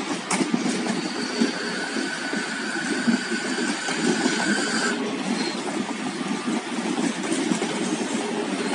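Renfe Class 449 electric multiple unit departing a station, its wheels and bogies rumbling steadily over the track as it passes. A faint high steady whine sits over the rumble from about a second in and cuts off about five seconds in.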